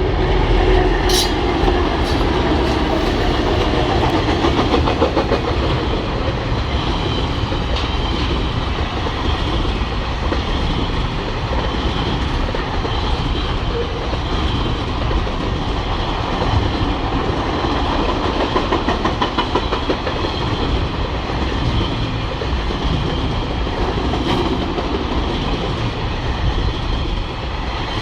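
Diesel-hauled TasRail freight train passing, its wagon wheels clacking over the rail joints over a steady, loud rumble.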